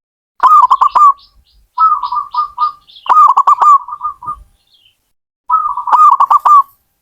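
Zebra dove (perkutut) singing: four phrases of quick, pulsed cooing notes, each lasting about a second, with short pauses between them. A fainter, higher-pitched chirping joins in during the second and third phrases.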